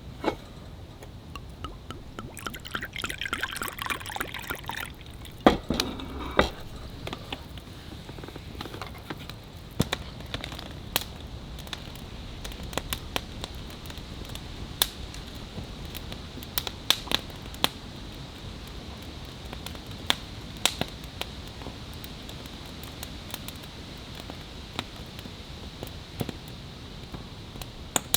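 Campfire crackling: sharp pops and ticks scattered over a steady hiss. A few seconds in there is a louder rushing hiss lasting about two seconds, followed by two knocks.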